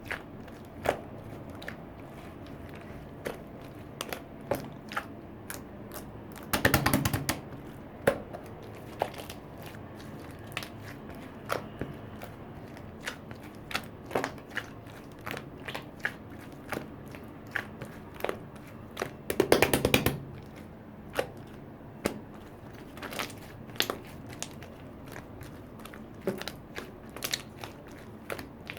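Small sharp clicks and taps of utensils and a container being handled with chocolate pudding, with two brief bursts of rapid clicking about seven and twenty seconds in.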